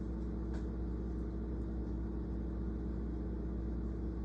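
Steady low mechanical hum with a constant pitch, and a faint click about half a second in.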